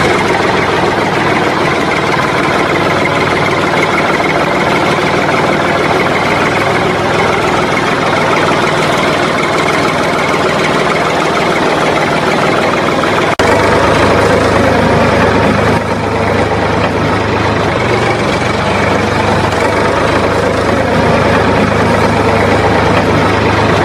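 A small engine running steadily. About halfway through, the sound changes abruptly and a deeper hum joins it.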